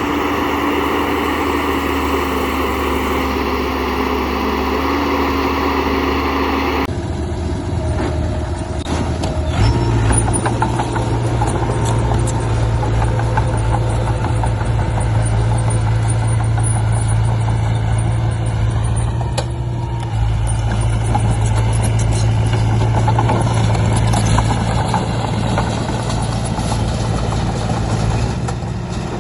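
A motor runs steadily. The sound changes abruptly about seven seconds in, after which a strong, steady low hum carries on.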